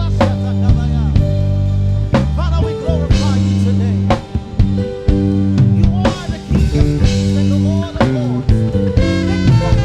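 A band playing an instrumental passage: drum kit with snare and bass drum hits over held bass and guitar chords.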